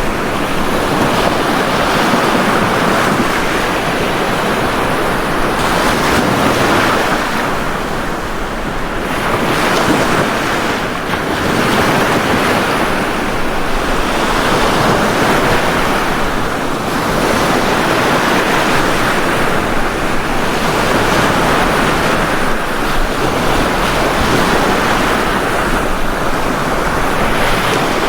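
Ocean waves breaking on a beach: a continuous surf wash that swells and eases every few seconds.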